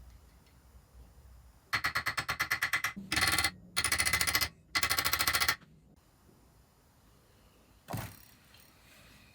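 A burst of rapid clicking at about a dozen a second, then three longer, louder rattling buzzes, each lasting about half a second to a second, ending a little over halfway through. A single knock follows near the end.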